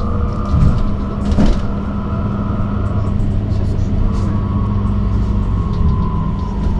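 Electric bus in motion, heard from inside: a steady low rumble and hum with the motor's whine, which begins to fall in pitch near the end as the bus slows. A couple of short knocks come about half a second and a second and a half in.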